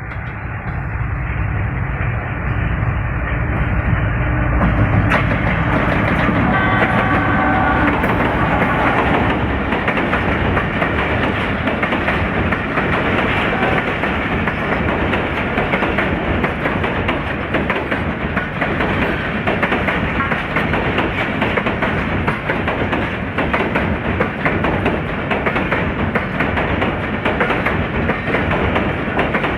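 Khyber Mail passenger train going by close, its wheels clattering continuously over the rails. The sound grows louder over the first few seconds, then holds steady.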